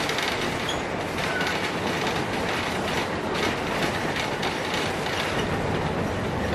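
Narrow-gauge train running along the track: a steady rumble of wheels on rail with faint clicks.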